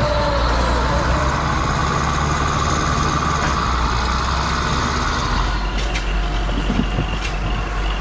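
Heavy forestry machine's diesel engine running under load, with a whine that rises and falls, then a change in the sound about five and a half seconds in, followed by a few sharp clicks.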